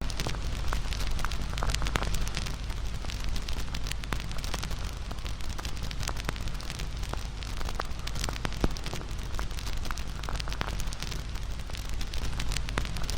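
Campfire burning, with many irregular crackles and small pops over a steady hiss and low rumble. One sharper crack comes about two-thirds of the way in.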